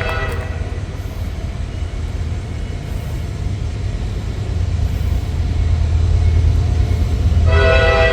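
Approaching train at a grade crossing: a horn blast cuts off just after the start, a low rumble grows steadily louder, and the horn sounds again about seven and a half seconds in.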